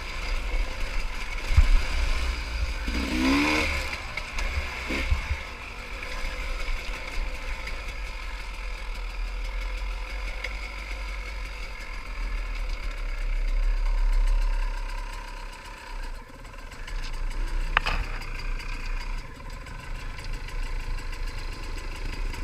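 Big-bore pit bike engine running as the bike is ridden, the revs rising and falling, with a steady low rumble of wind on the microphone. The sound swells louder around the middle and drops back after.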